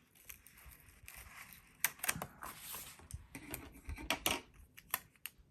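Paper and small craft tools being handled on a desk: scattered light clicks and taps, with brief paper rustles and swishes.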